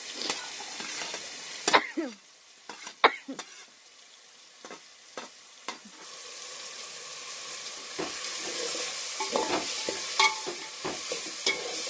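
Food frying and sizzling in a cooking pot while it is stirred, with sharp knocks and scrapes of the stirring utensil against the pot in the first few seconds. The sizzle drops back about two seconds in and builds up again from about six seconds.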